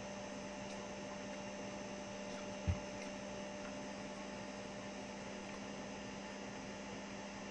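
Steady electrical mains hum over a light hiss, with a single low thump about two and a half seconds in.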